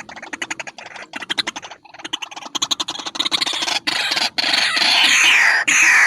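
White-breasted waterhen calling: a rapid ticking chatter that quickens and grows louder, turning about four seconds in into loud, harsh calls that fall in pitch.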